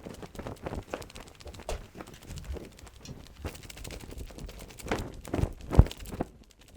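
Irregular clicks and knocks, with a few louder thumps about five to six seconds in.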